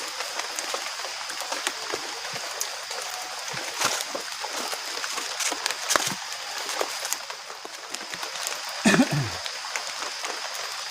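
Steady rain falling, with scattered drop clicks spattering over it. A brief, louder low sound breaks through about nine seconds in.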